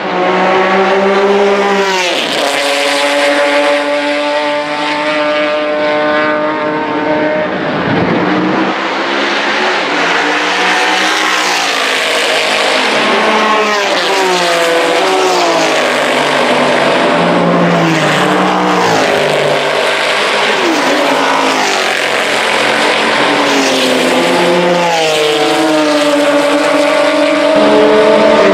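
Several race car engines at speed, one after another. Each climbs in pitch as it accelerates, then sweeps sharply down as it passes, about two seconds in, around eight seconds, and again at the end.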